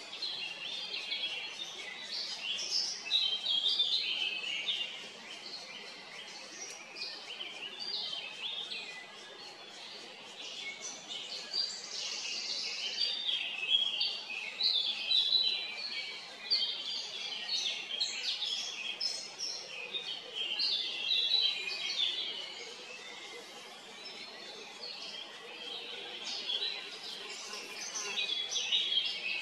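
Birds chirping: many short, high-pitched calls overlapping without a break, in waves that swell and fade.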